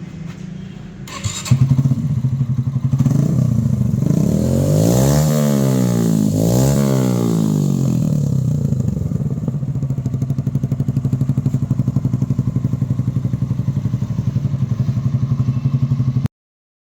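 Motorcycle engine with a free-flow SC Project-style exhaust muffler catching and starting about a second and a half in. It is revved twice in quick rises and falls, then idles with a pulsing exhaust note until it cuts off near the end.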